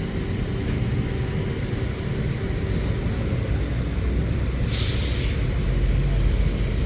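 City street traffic with a heavy vehicle running in a steady low rumble. About five seconds in comes a short, sharp hiss of air brakes.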